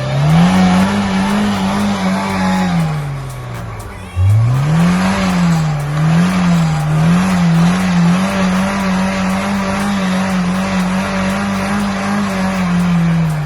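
Off-road vehicle's engine revved hard twice with wheels spinning, revs wavering up and down as the tyres slip: the vehicle is bogging down and getting stuck.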